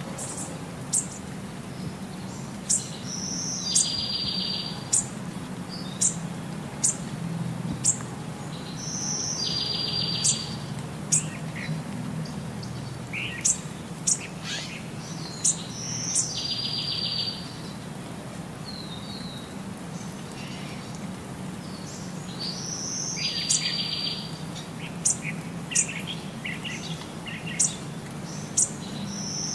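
Birds chirping with many short high notes. About every six seconds a brief note is followed by a buzzy trill of about a second, and a low steady hum runs underneath.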